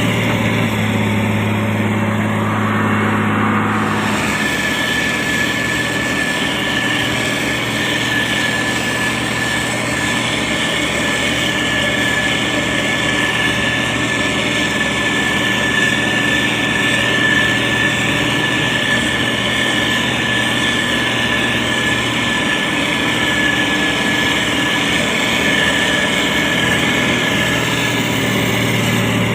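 SANY STG190C-8S motor grader's diesel engine running steadily while it spreads gravel. A steady high whine joins the engine sound about four seconds in.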